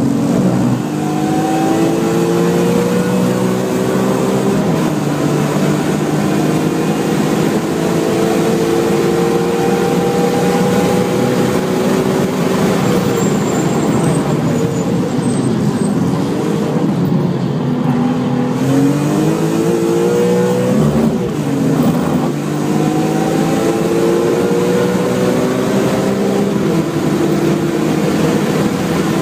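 BMW M3 engine heard from inside the cabin under hard acceleration on a race track, its pitch climbing through the gears. Through the middle the pitch drops and wavers as the car slows for corners, then it climbs again near the end, with steady wind and road noise underneath.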